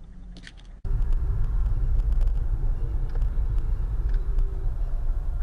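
Car driving: a steady low rumble of engine and road noise that starts abruptly about a second in, after a quieter stretch with one short high sound.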